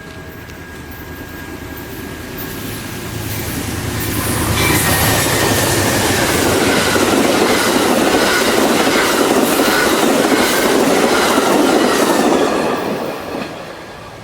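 Amtrak passenger train passing close by, its wheels clacking over the rail joints with some squeal. The sound builds over the first five seconds, holds loud, then falls away about thirteen seconds in.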